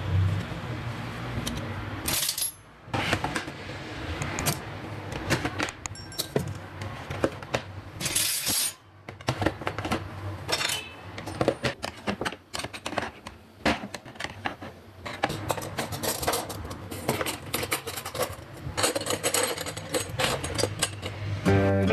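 Kitchen utensils and cutlery clinking and clattering as they are handled and set into a drawer organizer, a busy run of small irregular metallic clinks.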